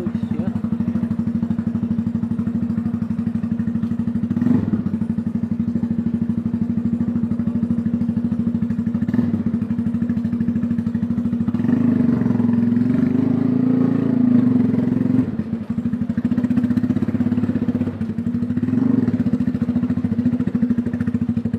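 A steady, low engine-like hum with a fast even pulse. It swells about twelve seconds in, then dips briefly a few seconds later.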